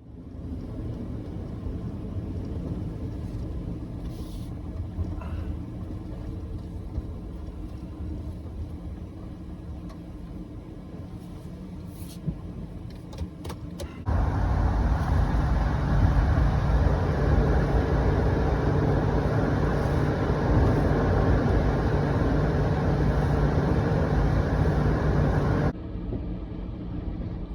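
A motor vehicle running with a steady low rumble. It gets clearly louder about halfway through, then drops back suddenly near the end.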